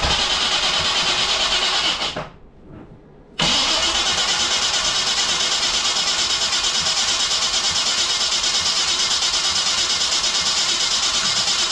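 Chevy 350 small-block V8 being cranked by its starter in two long bursts, with an even pulsing rhythm and a short pause about two seconds in. The engine turns over without catching, on a test fire after sitting for years.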